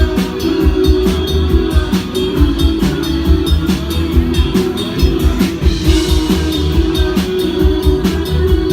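Live rock band playing at full volume, with drum kit hits, a strong bass line and electric guitar.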